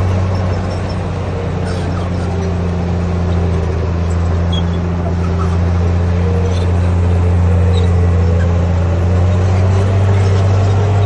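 Heavy diesel engine of an earthmoving machine running steadily under load, a deep even drone whose higher tones rise and fall a little as the load shifts.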